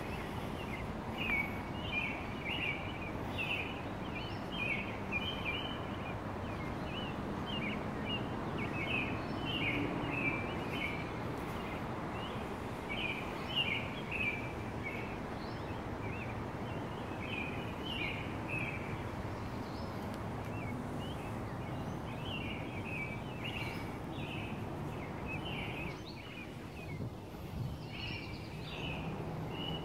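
Songbirds chirping in quick runs of short high notes over steady outdoor background noise; the background noise drops briefly near the end.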